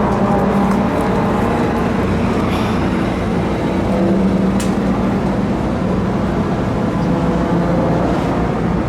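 Steady drone of engines running, with a constant low pitched hum.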